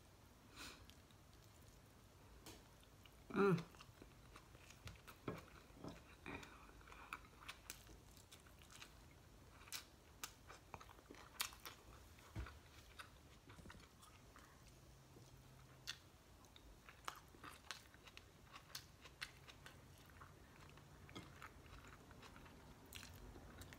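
Quiet close-up eating sounds of a person chewing air-fried galunggong (round scad) and rice eaten by hand, with small clicks scattered throughout. A brief louder pitched sound comes about three and a half seconds in.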